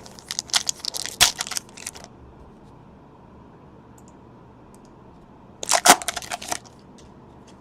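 Trading cards and packs being handled: bursts of crinkling and clicking over the first two seconds and again briefly near the end.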